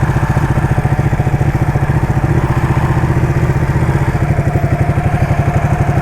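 Ducati motorcycle engine running steadily at low revs, with an even, lumpy pulse and no revving.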